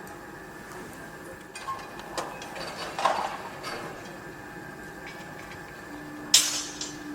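Construction-site noise: a steady background hum with scattered metallic clinks and knocks, the loudest a sharp clang about six seconds in. A steady low tone starts shortly before that clang and carries on to the end.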